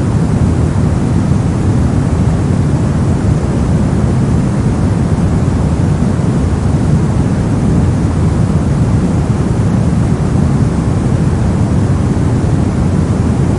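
Steady brown noise: a continuous, even rumbling hiss with most of its energy in the low end and little in the highs.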